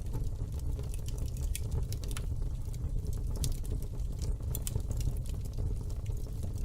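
Fire crackling in a fireplace: scattered sharp pops and clicks over a steady low noise.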